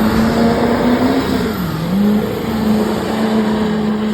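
Diesel truck engine revving hard, a loud sustained high-rpm note over heavy rushing exhaust noise, with a brief dip in pitch about two seconds in before it climbs back.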